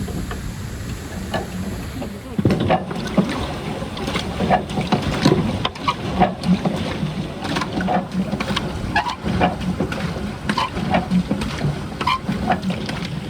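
Pedal-powered swan boat under way, its paddle wheel churning and splashing the water with irregular knocks and splashes that grow busier a couple of seconds in; wind on the microphone.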